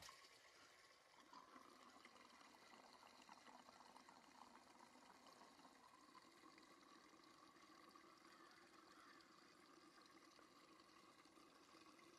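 Premixed two-stroke fuel being poured into a tank: a faint, steady trickle, with a short knock right at the start.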